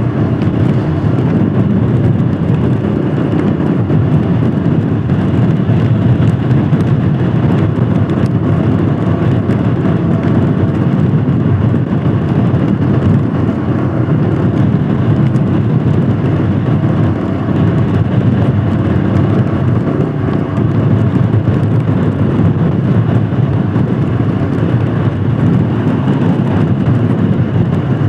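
Royal Enfield Himalayan Scram 411's single-cylinder engine running steadily while riding, mixed with steady road and wind noise.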